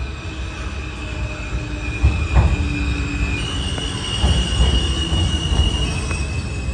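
New York City subway train running with a heavy rumble and a steady high wheel squeal whose pitch steps up about halfway through and drops back near the end. A few sharp knocks of the wheels over the rail come through, the loudest a little over two seconds in.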